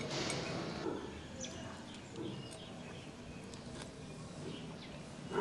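Faint outdoor background with scattered short bird chirps.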